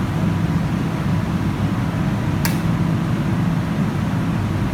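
Steady low rumble of a metro train, with one sharp click about two and a half seconds in.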